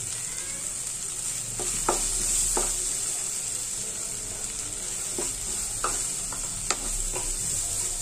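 Chopped capsicum, tomato and green chilli sizzling in a non-stick kadhai while a wooden spatula stirs in turmeric. There is a steady hiss of frying, with the spatula knocking and scraping against the pan several times.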